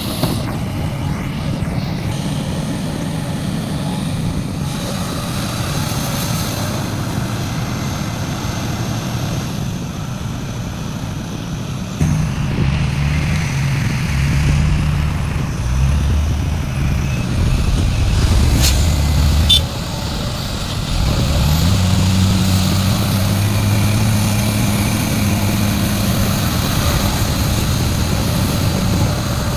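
Heavy diesel engines of a large excavator and dump truck running steadily, the engine note rising under load about twelve seconds in, dropping back briefly, and rising again a little past two-thirds of the way through. There is a short sharp metallic click shortly before the first drop.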